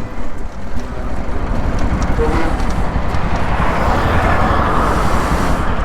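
Bajaj Pulsar NS200's single-cylinder engine running through an aftermarket full-system exhaust, with wind noise on the microphone. A louder rush of noise builds about halfway through.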